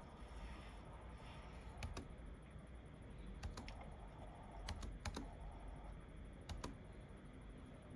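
Computer keyboard typed on quietly: about ten sparse, separate keystrokes, several in quick pairs, over a faint steady room hum.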